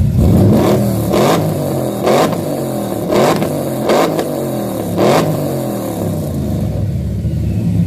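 A car engine with a loud aftermarket exhaust being revved in sharp throttle blips, about six of them roughly a second apart, the pitch dropping back after each, then settling to a rough idle for the last couple of seconds.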